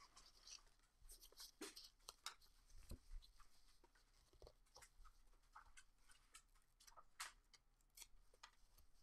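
Faint, scattered light clicks and rustles of trading cards being handled and slid through by hand.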